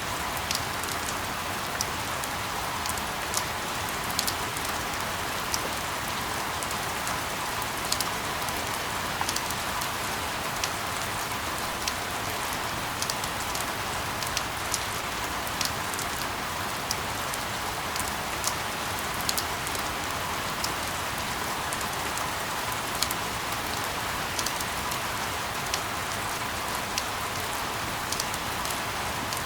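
Steady rain: an even hiss with frequent sharp ticks of single drops landing.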